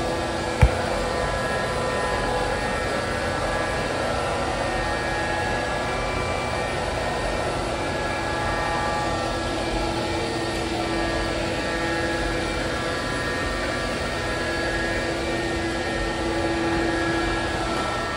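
ILIFE robot vacuum running steadily, its motor and brushes giving a constant whir with a few steady tones. A single sharp knock sounds about half a second in.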